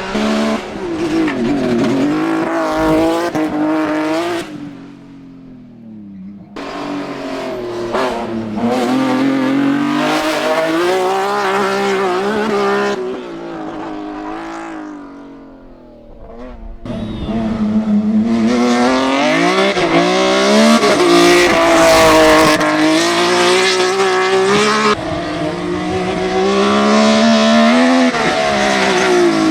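BMW E30 prototype hill climb race car's engine revving hard, its pitch climbing and dropping repeatedly as it accelerates and shifts, heard across several edited passes that cut in and out abruptly, with quieter stretches about five seconds in and near the middle.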